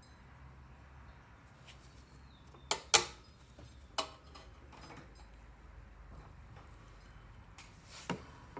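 A few sharp knocks from hand tools working at a stuck exhaust valve in a Honda GCV160 cylinder head: a quick pair about three seconds in, one more a second later, and a lighter one near the end.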